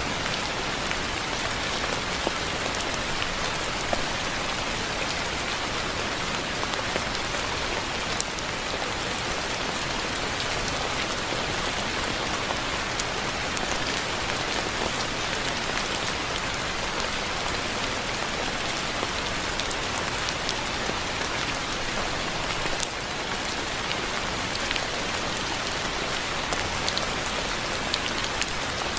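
Steady soft rain falling on a surface, an even hiss with scattered drip ticks.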